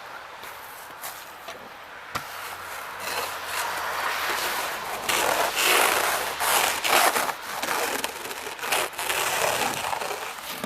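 Light powder snow being cleared off a car, heard as irregular scraping strokes that grow louder and denser partway through, with a couple of small knocks in the first two seconds.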